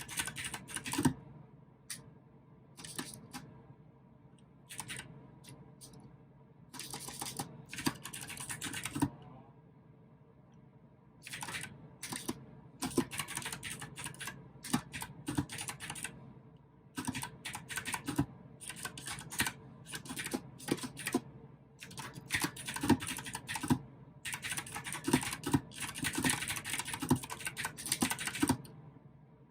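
Mechanical keyboard with clicky blue switches being typed on in quick runs of keystrokes, broken by several short pauses.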